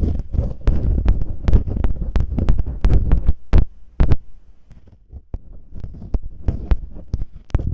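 Masking tape crackling, rubbing and scratching right at the microphone in imitation of ear cleaning: dense crackles and clicks over low rubbing noise, quieter for a moment about halfway through.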